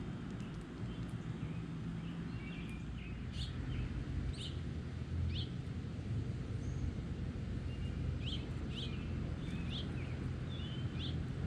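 Small songbirds giving short, sharp chirps and chip notes, scattered and in little clusters over a steady low rumble.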